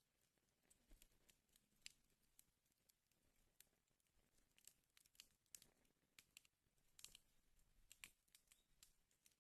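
Wood fire crackling in a fireplace: faint, irregular small pops and snaps over a soft hiss.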